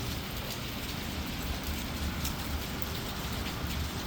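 Heavy rain falling hard and steadily, a dense even hiss of rain on surfaces with a few sharper drop hits.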